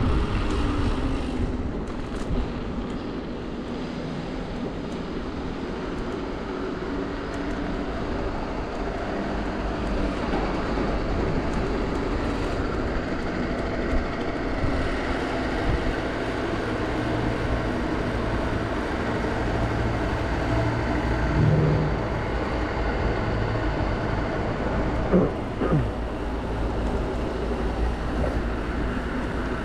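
City-centre traffic and road noise heard from a moving bicycle: a steady rumble of passing vehicles with wind on the microphone, and a couple of brief rising tones near the end.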